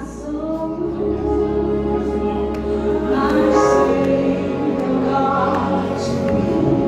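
Choir singing with instrumental accompaniment, swelling about three seconds in.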